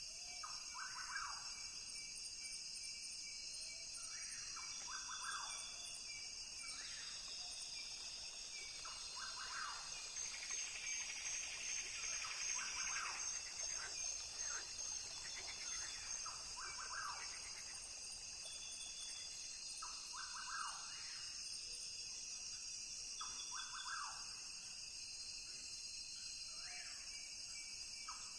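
Rainforest ambience: a steady, high-pitched chorus of insects buzzing and trilling, with short animal calls repeating every few seconds. The chorus swells for a few seconds near the middle.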